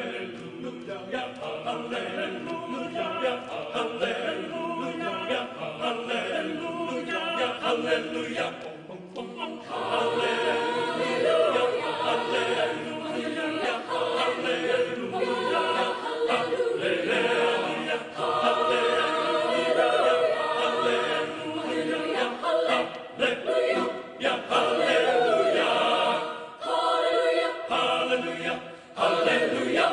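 A choir singing unaccompanied, many voices in harmony, with short breaks between phrases about nine seconds in and near the end.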